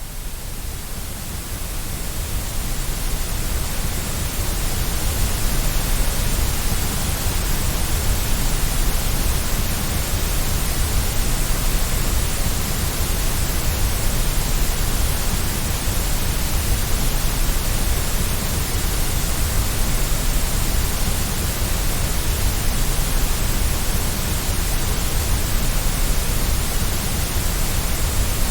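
Steady white noise, an even static-like hiss, fading in over the first few seconds and then holding level.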